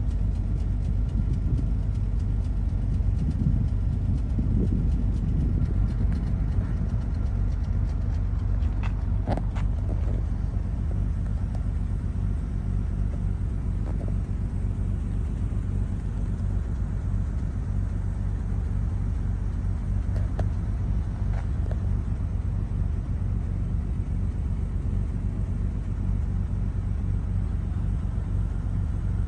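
A car's steady low rumble, with a few faint clicks about nine seconds in and again around twenty seconds.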